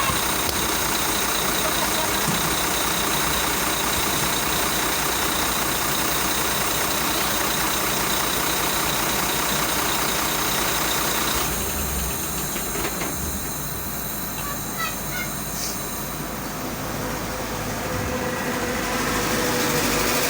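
Steady motor-vehicle engine and road noise. About halfway through it drops and thins, then builds again near the end as a vehicle draws closer.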